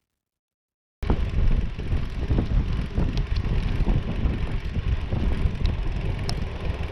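After a second of dead silence, a riding bicycle's wind rush on the microphone starts abruptly. It is a steady low rumble with tyre noise, and a few light rattling clicks run through it.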